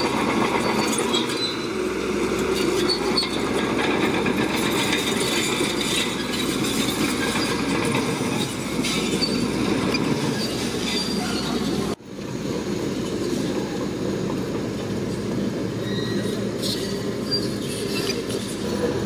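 Shantui crawler bulldozer at work: diesel engine running with its steel tracks clattering, a dense steady din with a sudden brief break about twelve seconds in.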